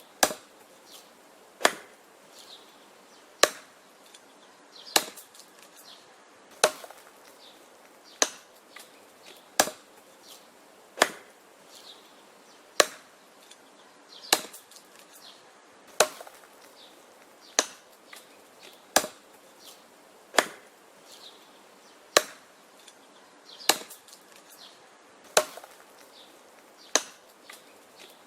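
Wood being chopped: a sharp chopping strike about every second and a half, with fainter knocks between the strikes.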